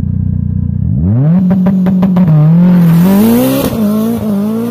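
Car engine revving: a low rumble, then about a second in the pitch sweeps up and holds, rising and falling with the throttle. A quick run of sharp crackles comes as it climbs.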